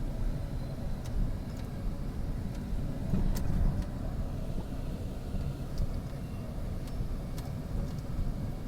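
SEPTA Market-Frankford Line elevated train running, a steady low rumble with a few sharp clicks now and then.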